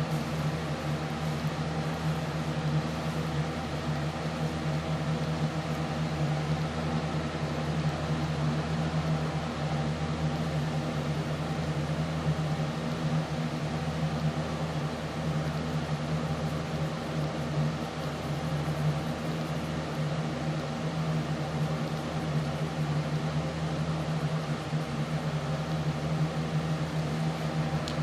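Steady mechanical hum with a strong low tone and an even hiss, unchanging throughout.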